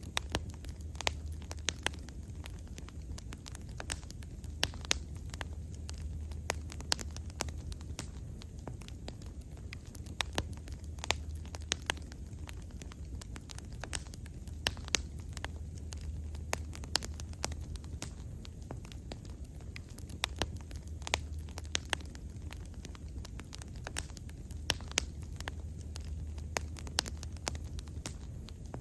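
Wood fire crackling, with frequent sharp irregular pops over a steady low rumble of the flames.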